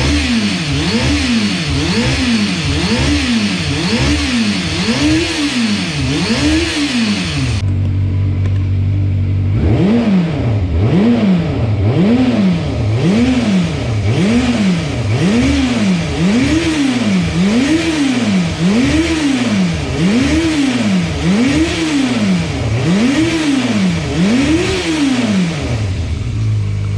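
Yamaha FZ400 (4YR) inline-four engine and exhaust being revved in quick, regular throttle blips, about one a second, each pitch rising then falling back. About a third of the way in it settles to a steady idle for about two seconds before the blipping resumes, and it drops back to idle near the end.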